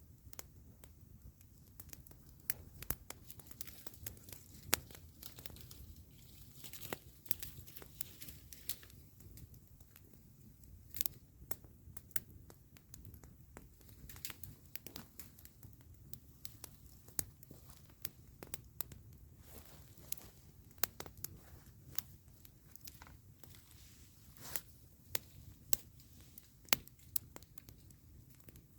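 Wood campfire crackling: irregular sharp snaps and pops, a few much louder than the rest, over a low steady background noise.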